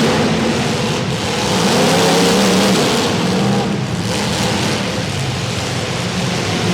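Demolition derby cars' engines running hard and revving together, their pitch wavering up and down without a break.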